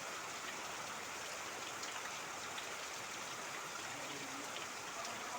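Steady rain together with running, trickling water: a constant even hiss with scattered drop ticks.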